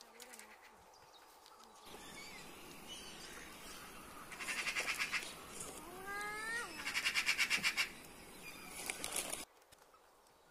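Birds calling: several bursts of rapid high chatter and one nasal call that rises and then falls in pitch, over a steady background hiss. The sound drops away abruptly near the end.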